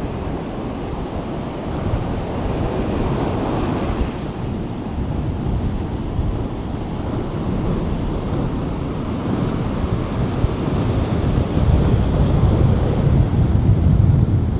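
Strong wind buffeting the microphone, with ocean surf breaking behind it. The low rumble of the wind builds louder in the last few seconds.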